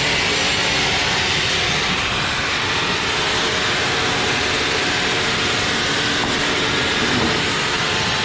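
Sawmill machinery running, a steady mechanical noise with no pauses.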